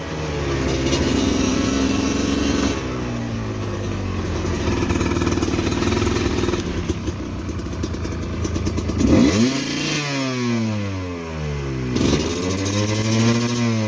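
Dirt motorcycle engine running, then blipped twice, about 9 and 12 seconds in, the revs dropping back slowly each time. The full-CNC quick throttle is sticking after rain, damp and dust got into it, so it does not snap back.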